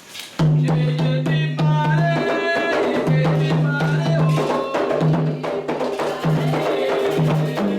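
Candomblé ritual music: hand drums and percussion with singing voices, starting suddenly about half a second in.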